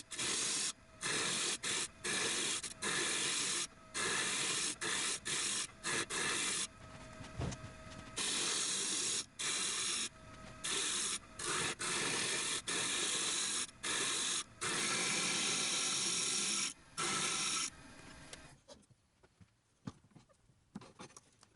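A turning tool cutting a spinning piece of wood on a wood lathe: repeated bursts of hissing as the tool bites into the wood, each stopping sharply, with a faint steady tone between cuts. The cutting stops about eighteen seconds in.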